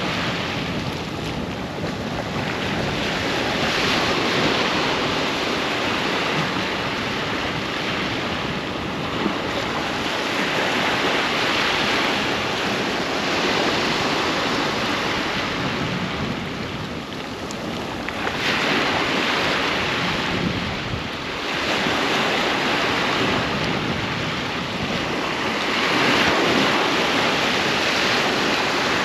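Ocean waves breaking on a beach: a continuous wash of surf that swells and eases every few seconds as each wave comes in.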